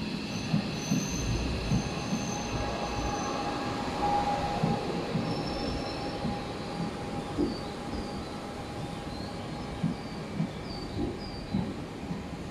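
Tobu 500 series Revaty electric limited express rolling slowly past, its wheels knocking irregularly over rail joints. Short high-pitched wheel squeals come through, more often in the second half.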